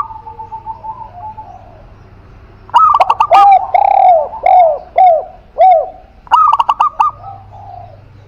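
Cage doves cooing: a spotted dove and a zebra dove. About three seconds in, a phrase opens with a quick run of notes, then goes into a string of arched coos about half a second apart. A second short run of notes follows about six seconds in.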